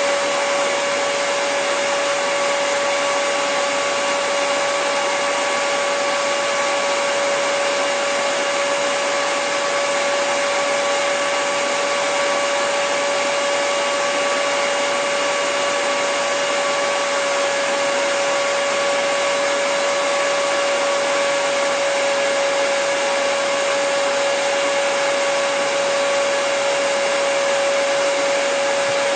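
Hair dryer running steadily: an even rush of air with a constant motor whine in it.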